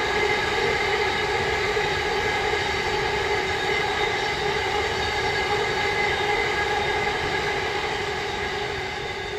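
Freight train of covered hopper wagons rolling past: a steady drone of wheels on rail with a few fixed tones, fading away near the end as the last wagons go by.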